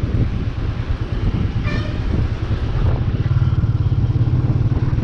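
Royal Enfield Bullet 350's single-cylinder engine running steadily under way, getting a little louder in the second half. A short horn toot sounds about two seconds in.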